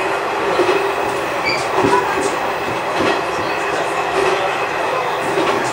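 Diesel railcar running along the line, heard from inside the car: a steady engine and running hum with a few wheel clicks over rail joints.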